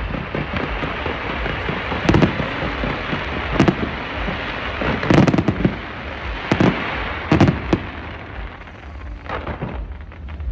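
Aerial fireworks going off: about six deep booms a second or two apart, with continuous crackling between them that thins out near the end.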